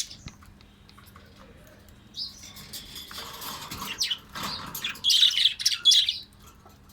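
Baby parrots chirping in raspy, noisy bursts that start about two seconds in and grow loudest near the end, with a few clicks at the very start.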